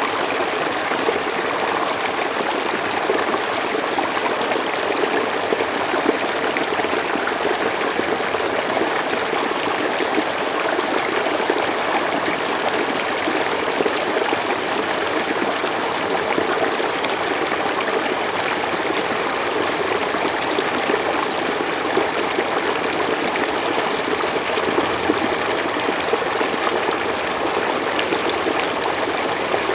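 River water flowing steadily over stones: a constant rushing and babbling.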